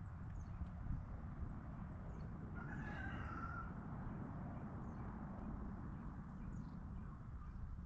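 A chicken calls once, for about a second, near the middle, over a steady low rumble.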